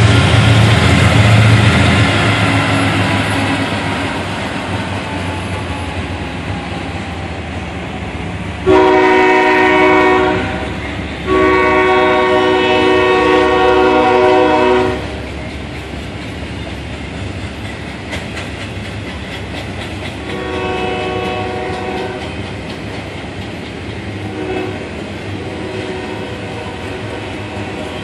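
CSX diesel freight locomotives rumbling past, then a container train of double-stacked well cars rolling by with a steady wheel clatter. The locomotive horn sounds twice, loudly, about nine and eleven seconds in, the second blast long, then fainter blasts later as the engines draw away.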